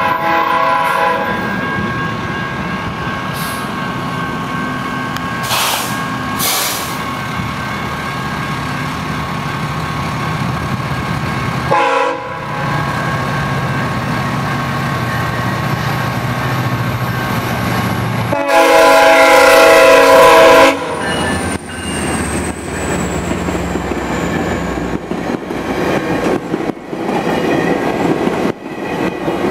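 GO Transit commuter train's air horn sounding at a level crossing: a short chord at the start, another about 12 seconds in, then a long, loud blast about 18 to 21 seconds in, over the low rumble of the approaching train. Near the end the bilevel coaches pass through the crossing with the clickety-clack of wheels on rail joints.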